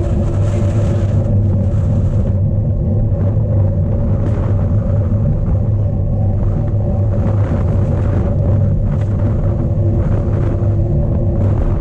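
Strong wind buffeting the microphone of a camera mounted on a cyclocross bike as it is ridden: a steady low rumble with gusts of hiss that come and go.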